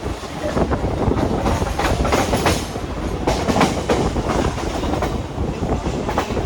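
Local passenger train running along the track: a steady low rumble with repeated clacks of the wheels over the rail joints.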